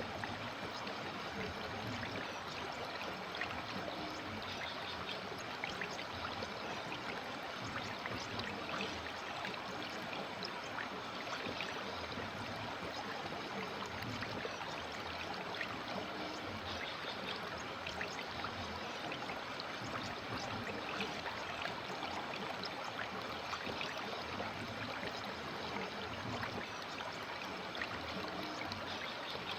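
River water flowing and babbling over stones, a steady rushing with fine splashes and trickles.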